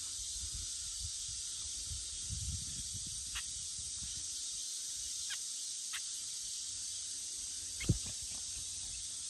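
Steady high-pitched insect chorus hissing in the field grass, with a few faint clicks and a soft thump near the end.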